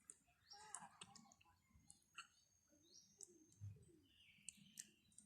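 Faint eating sounds: soft mouth and utensil clicks while chewing noodles, with a few faint high chirps.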